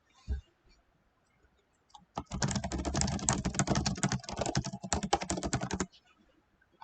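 Rapid typing on a computer keyboard, a dense run of keystrokes lasting about three and a half seconds and starting a couple of seconds in.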